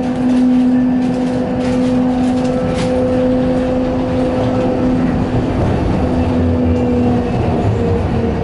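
Inside a CRRC Changchun-built MTR West Rail Line train under way: a steady whine from the traction motors over the rumble of the wheels on the track. The whine shifts down a little near the end.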